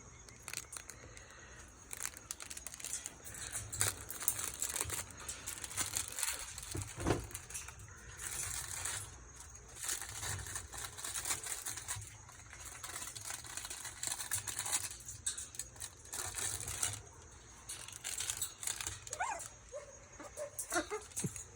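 Parrots pulling at and tearing into a toy, making irregular crinkling, rustling and tearing sounds with small clicks. A few short calls come near the end.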